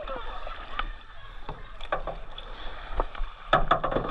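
River water splashing and sloshing close by on a river float, with scattered light knocks and a louder run of splashes near the end.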